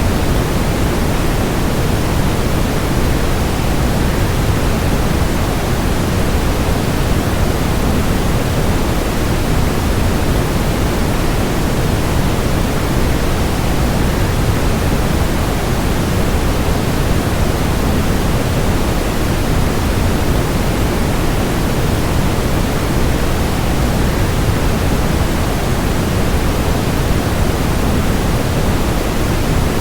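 Steady rushing of a waterfall blended with white noise, even and unchanging, heaviest in the low end.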